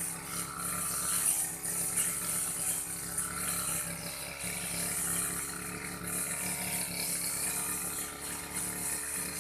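Old Aldo brush cutter's small engine running steadily at working speed while cutting grass.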